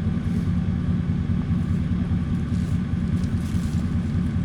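Tractor engine running steadily with a low rumble while it works to drag a chained log off the road.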